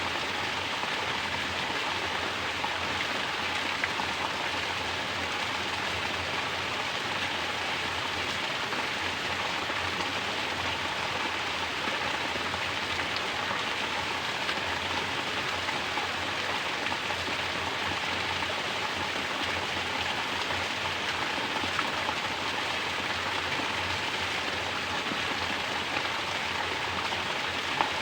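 Mountain spring water pouring steadily from a natural shower and splashing down in an even, continuous rush.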